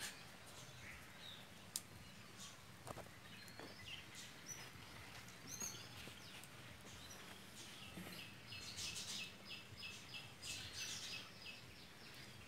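Faint birds chirping over low background noise, with a quick run of repeated notes, about four a second, in the second half.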